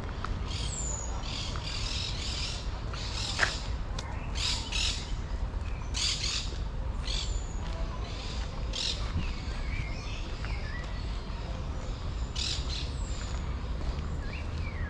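Birds squawking in short, harsh calls repeated every second or so, with a few thin, high chirps, over a steady low hum of city background noise.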